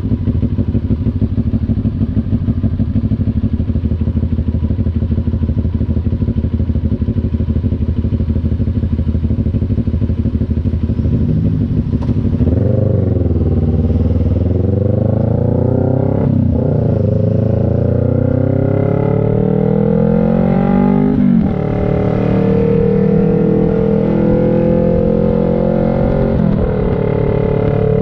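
CF Moto NK400's two-cylinder engine running at a steady low speed, then about halfway through pulling away and accelerating hard, the pitch climbing and dropping back at each of several upshifts.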